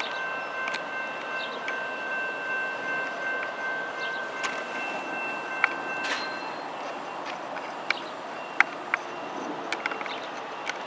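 Freight train wheels squealing against the rails in high, steady tones that stop about six seconds in, over rolling noise, with scattered sharp metallic clicks and clanks.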